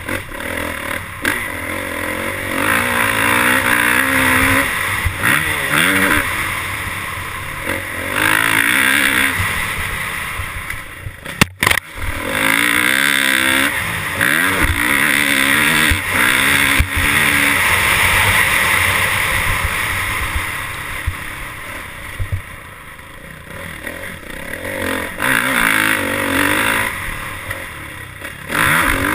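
Motorcycle engine revving up and down repeatedly over a steady rush of wind noise, cutting out briefly about a third of the way through.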